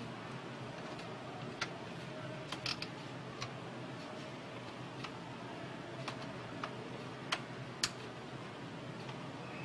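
Scattered small clicks and taps at irregular intervals, the sound of parts being handled during work on a printer, over a steady low hum.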